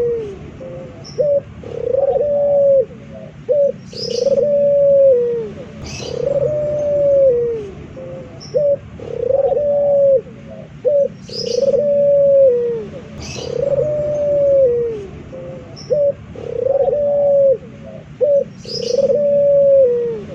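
Male puter (domestic Barbary dove) cooing over and over: about ten drawn-out coos, each falling in pitch at its end, with short clipped notes between them. Brief high chirps sound every couple of seconds.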